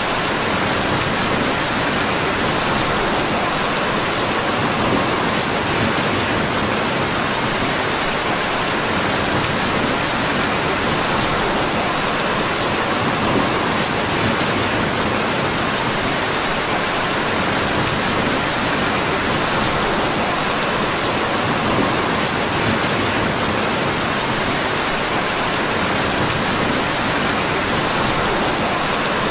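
Steady, even rain falling hard, with a few faint high ticks here and there.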